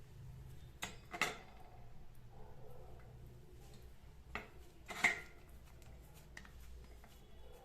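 Kitchen utensils clinking against cookware: four sharp knocks, two close together about a second in and two more a little before and about five seconds in.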